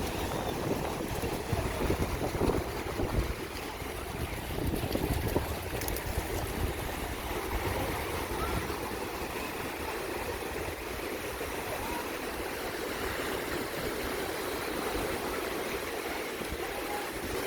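Sea waves washing onto the shore in a steady rushing wash. There are heavy low rumbles through the first few seconds.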